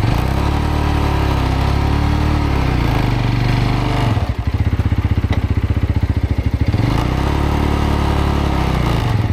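Road motorcycle's engine revving up and easing off, with a few seconds of slow, low chugging in the middle before it revs again, as the bike struggles to climb out of deep mud.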